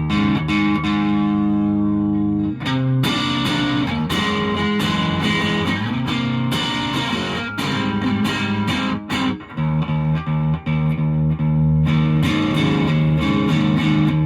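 Electric guitar played through a Boss DS-1 distortion pedal into a tube amp, sustained distorted chords and riffs with the chord changing every few seconds, heard through a phone's microphone.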